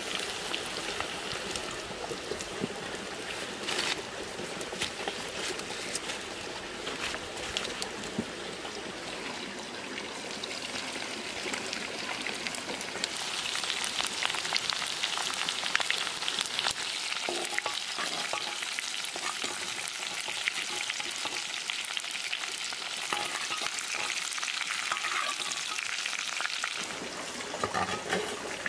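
Pieces of banana plant stalk frying in a clay pot: a steady sizzle with fine crackling that grows louder about halfway through.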